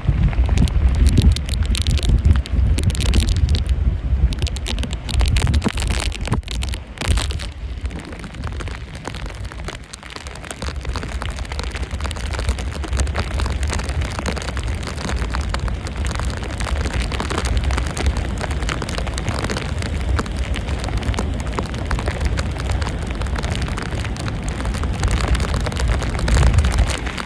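Tropical-storm wind buffeting the microphone, with rain. It is gusty and uneven for the first several seconds, then settles into a steadier rush.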